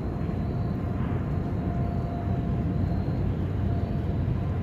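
CSX freight train rolling past: a steady low rumble of wheels on rail, with a faint steady whine over it.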